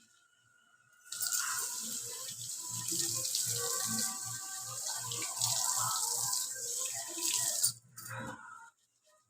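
A tap runs into a sink, starting about a second in and cutting off sharply about two seconds before the end, with a faint rhythmic low knocking underneath.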